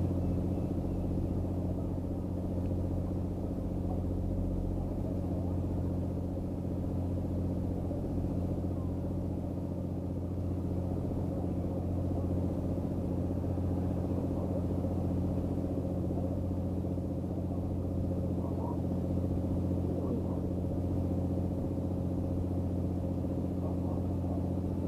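Steady low engine hum with even, unchanging tones, like an engine running at a constant idle throughout.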